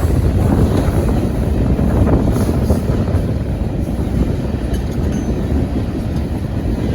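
Train rolling past close by: a steady, loud low rumble.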